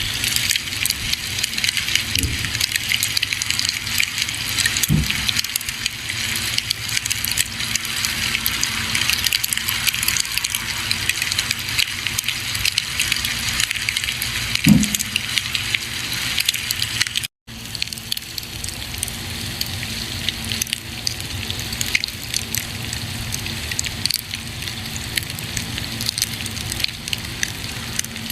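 Campfire burning, with a steady crackling hiss full of small snaps and a couple of heavier pops from the burning wood. The sound drops out for a split second about two-thirds of the way through, then carries on.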